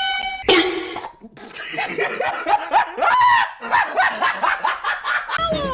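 High-pitched cartoon-style giggling, a quick run of short bouncing laugh syllables. It comes after a steady held tone that cuts off about half a second in and a brief noisy burst.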